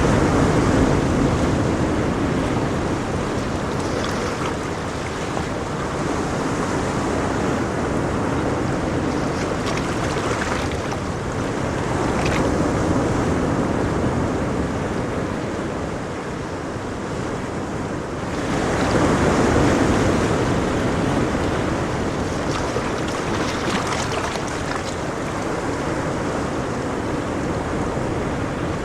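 Ocean waves breaking and washing on a shore, a continuous surf noise that swells as waves break, most strongly about a third of the way in and around two-thirds of the way in.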